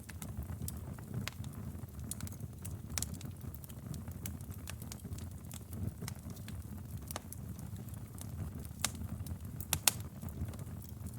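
Wood fire crackling in a fireplace: a steady low rumble of flames with irregular sharp pops and snaps. The loudest cluster of pops comes near the end.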